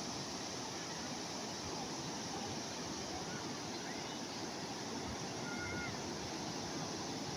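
Calm sea waves: a steady, even wash of surf, with a few faint short chirps about midway.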